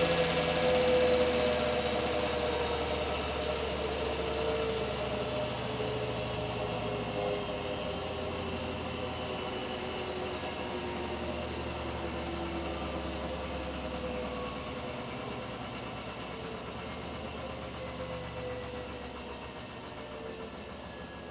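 Beko WTK104121W washing machine on a 1400 rpm spin cycle: the drum and motor hum and whine steadily, growing gradually quieter with the tones drifting slightly lower, as the drum slows.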